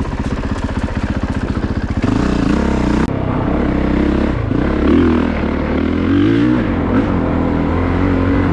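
A Honda CRF450RX's single-cylinder four-stroke engine on a dirt bike ridden on trail: it runs at low revs with distinct, evenly spaced firing pulses, then about two seconds in the throttle opens and it revs up and down for the rest.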